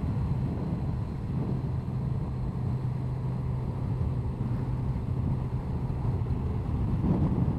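Honda CBR1100XX Blackbird's inline-four engine running at a steady cruise, with wind and road noise over a bumpy road.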